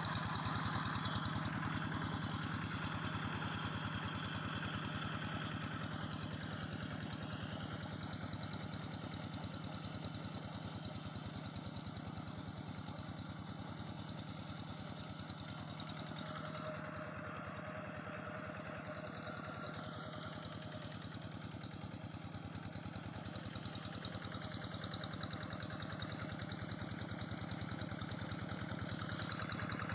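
Engine of a Quick G3000 SEVA two-wheel rice-field tractor running steadily with an even, fast chugging beat. It grows a little fainter through the middle and louder again near the end.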